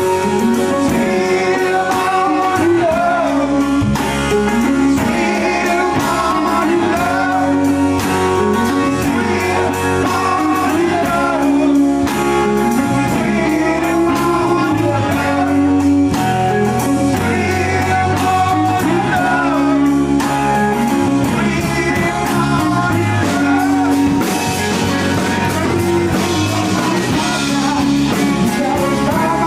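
A blues-rock band playing a song with guitar and singing, with a steady beat of drum hits.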